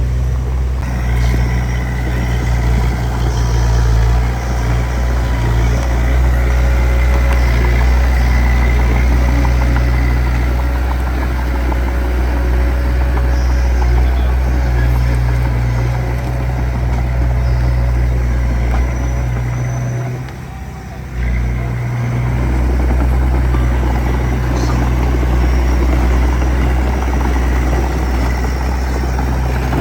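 Diesel engine of a small crawler bulldozer running steadily at a constant note, easing off briefly about two-thirds of the way through before picking up again.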